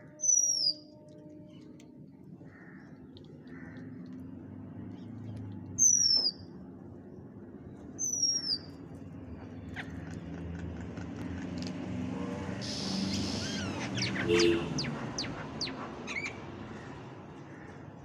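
Birds calling while feeding: three loud, short whistles, each falling in pitch, one at the start, one about six seconds in and one about eight seconds in. About two-thirds through comes a busy spell of chattering calls and sharp clicks, over a low steady rumble.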